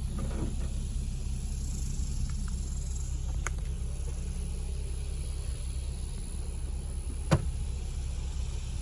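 Infiniti Q60's 3.7-litre V6 idling steadily. A faint sharp click comes about three and a half seconds in, and a louder sharp knock about a second before the end.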